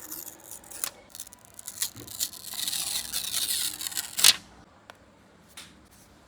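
Small tools and phone parts being handled: several sharp clicks, then about two seconds of rasping scraping that ends in a loud click.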